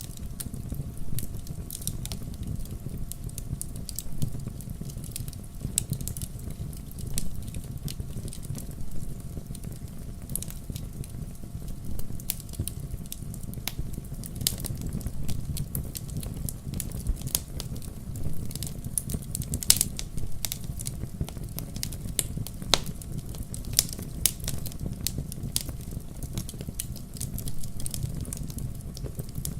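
Wood fire crackling in a fireplace: a steady low rumble of flames with frequent irregular sharp pops and snaps, a few louder ones now and then.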